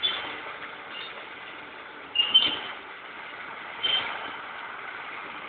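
Class 47 diesel-hauled train of three coaches moving slowly, a steady rumbling noise with three brief high-pitched squeals at the start, a little past two seconds and near four seconds.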